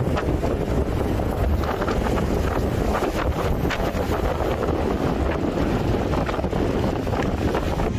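Hurricane-force wind blowing hard across the microphone: a loud, steady rushing noise with short gusty bursts throughout.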